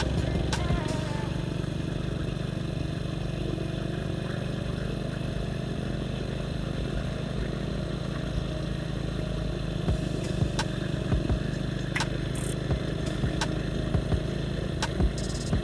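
Motorcycle engine running steadily on the move, with scattered sharp clicks and knocks in the second half.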